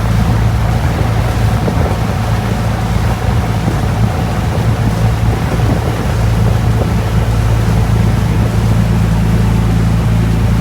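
Boat engine running at a steady low drone, with rushing water and wind noise over it.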